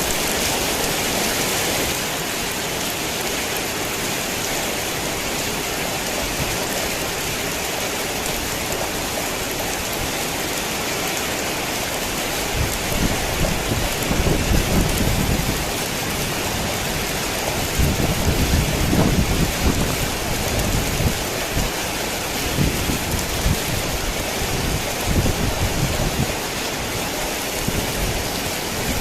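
Heavy rain pouring steadily, with thunder rumbling low several times in the second half.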